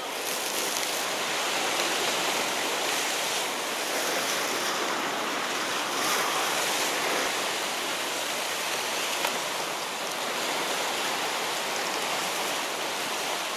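Sea waves washing steadily against shore rocks, a continuous noisy rush that swells and eases a little.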